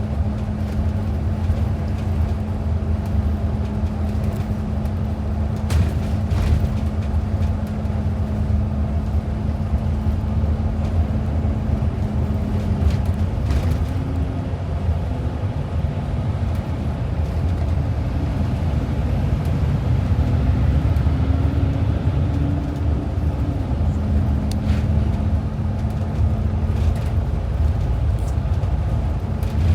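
Steady engine and road rumble heard inside a moving Sound Transit Express bus. A droning engine tone wavers higher for about ten seconds in the middle, then settles back.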